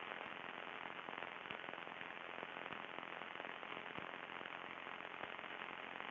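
Crackling static on an aircraft radio and intercom audio feed: a faint, steady hiss with many irregular sharp clicks, the bad radio crackle that ran through this flight.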